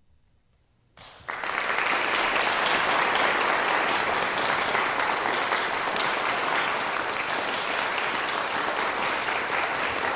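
Near silence, then an audience bursts into applause about a second in, the clapping going on steadily.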